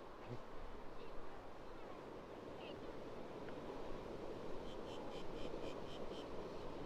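Steady wash of surf and wind with small birds chirping: a few scattered calls, then a quick run of about eight short high chirps, roughly five a second, about two-thirds of the way in.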